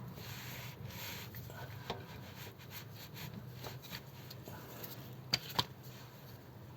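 Hand tools working at a gearbox plug under a 1955 Ford 100E: faint rubbing and scraping, with two sharp clicks close together about five seconds in.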